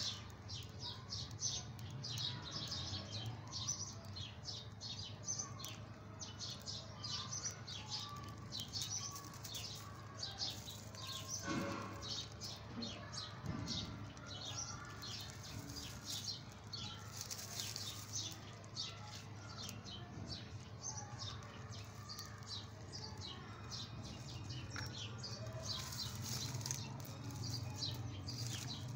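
Small birds chirping rapidly and continuously over a low, steady background hum, with a brief rustle about twelve seconds in.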